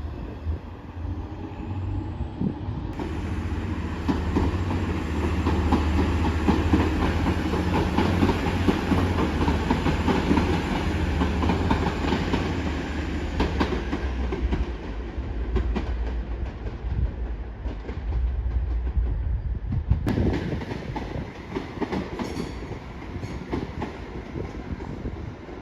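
A train moving through the station, its wheels clattering over rail joints and points. The clatter builds for a few seconds, stays loud for several seconds, then fades, with a second shorter burst of clatter later on over a steady low hum.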